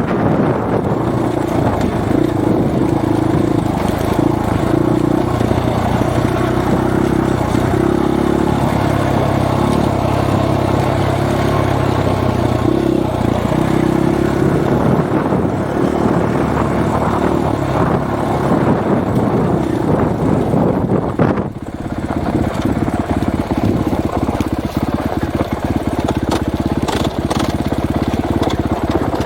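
Husqvarna 501 dirt bike's single-cylinder four-stroke engine running under throttle while riding, with wind buffeting the microphone. The engine note drops off briefly about two-thirds of the way through, then picks back up.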